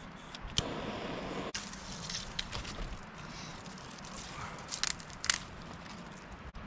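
Campfire being started from trash: crinkling and crackling as paper and packaging catch, with a couple of sharp snaps about five seconds in.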